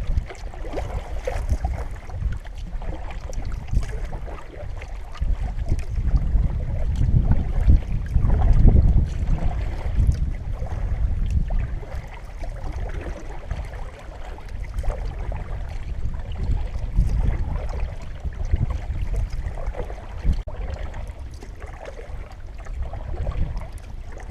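Gusting wind buffeting the microphone in a low rumble, strongest for a few seconds near the middle, over the water and paddle sounds of a solo canoe being paddled with a double-bladed paddle.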